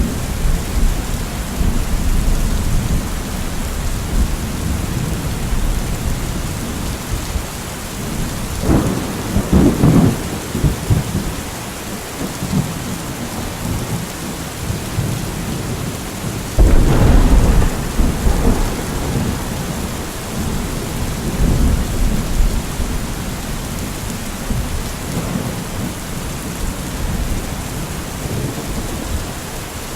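Steady heavy rain with thunder rumbling low under it. Two louder thunder peals stand out, one about nine seconds in and a sharper, stronger one about seventeen seconds in.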